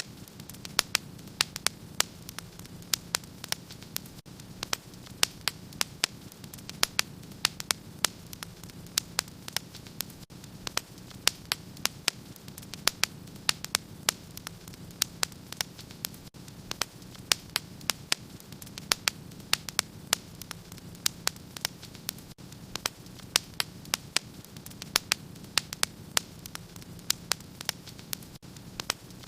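Wood fire in a fireplace crackling: sharp, irregular pops and snaps several times a second over a steady low background of the burning fire.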